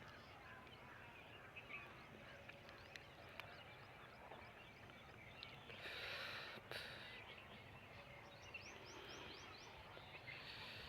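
Faint outdoor background hiss with small birds chirping far off, including a quick run of chirps about two thirds of the way through.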